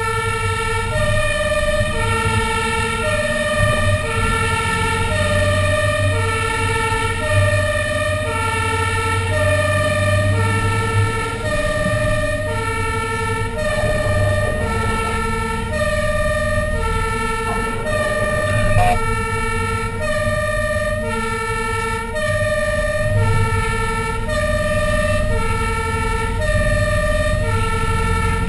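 Fire engine siren in a two-tone hi-lo pattern, alternating steadily between a high and a low note, over the steady rumble of the truck's engine.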